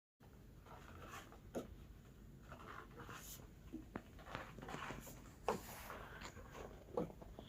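Faint, scattered rustling and light clicks of handling or movement, with a few sharper ticks.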